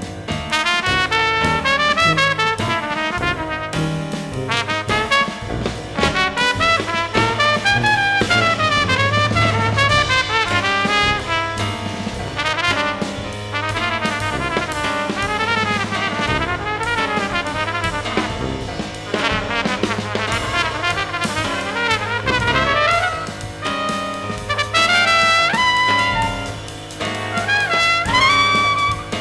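Small jazz brass ensemble playing: trumpet lines over a steady low bass and drums, with fast rising-and-falling runs through the middle.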